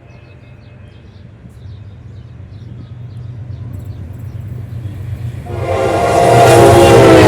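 General Electric diesel locomotive approaching, its low engine drone growing steadily louder. About five and a half seconds in, it sounds a loud, sustained air horn.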